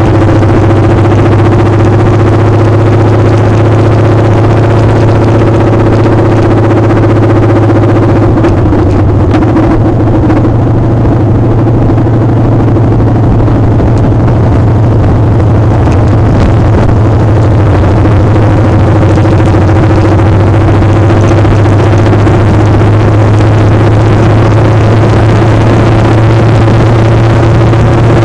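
Motorcycle engine running at a steady pace while riding, a constant drone under a rush of wind noise.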